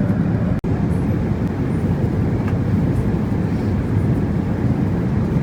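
Steady cabin noise of a Boeing 777-300ER airliner in flight: a low, even rush of airflow and engines, heard from inside the economy cabin. A split-second gap breaks it just over half a second in.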